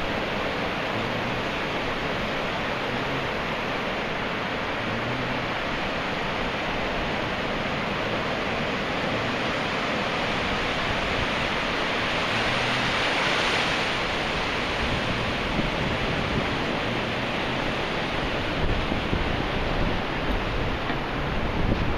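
Ocean surf: a steady wash of breaking waves that swells louder about halfway through, with a few low thumps near the end.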